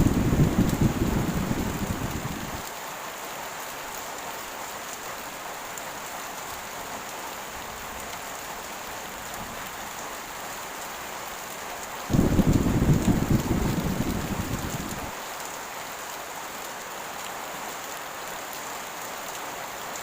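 Heavy rain falling steadily as an even hiss, with two deep thunder rumbles: one at the start that dies away about two and a half seconds in, and another about 12 seconds in that lasts about three seconds. Each rumble begins and cuts off suddenly.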